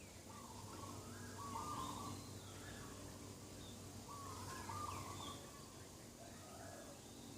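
Morning birdsong: a bird repeating short warbling phrases about once a second, with a few fainter, higher chirps from other birds over a faint steady hum.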